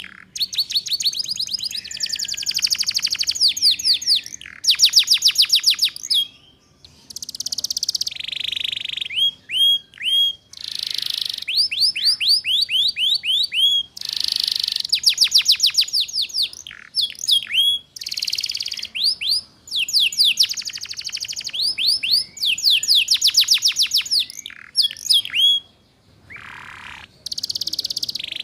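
Domestic canary singing in fast trilled phrases. Each phrase is a rapid run of the same high note repeated many times, lasting one to two seconds, with short breaks between phrases. This is the rolling 'ngeriwik' canary song used as a master recording to teach young canaries.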